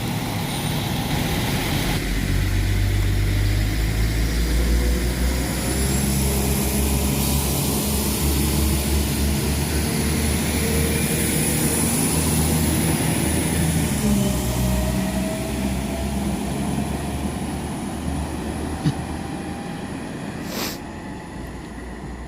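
Diesel railcar engine running steadily as a train stands at or moves through the station, its pitch slowly rising in the second half before it fades away near the end. A sharp click and a short bang come just before it fades.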